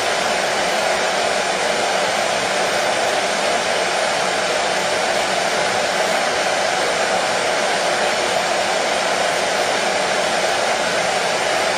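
Hair dryer running steadily: a continuous, even rush of blown air with a hum in it, unchanging in pitch and level.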